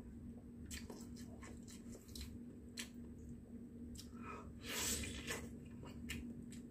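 A person eating chicken close to the microphone: faint wet chewing and mouth smacks in scattered clicks, a little louder around five seconds in.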